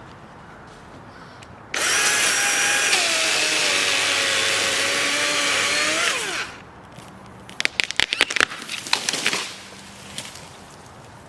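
Cordless electric chainsaw running for about four seconds, its motor whine dropping slightly as it cuts and then winding down when released. A rapid run of sharp cracks and snaps follows for about two seconds.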